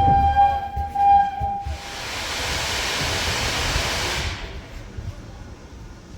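Steam locomotive's whistle sounding one steady note that stops about two seconds in, overlapped by a loud hiss of escaping steam that lasts a couple of seconds and then dies away, over a low rumble.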